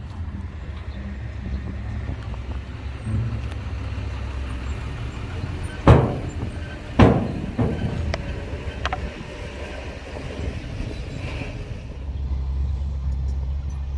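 Heavy diesel construction machinery running with a steady low rumble, broken by two loud bangs about six and seven seconds in and a few lighter knocks just after. The engine grows louder near the end.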